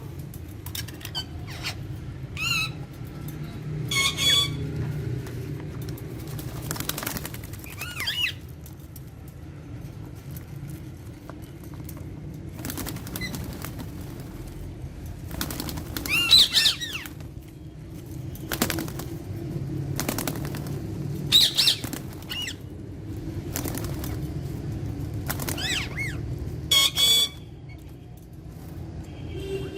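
Alexandrine parakeets giving several short, harsh squawks, the loudest about two-thirds of the way in and near the end, with rustling in between over a steady low hum.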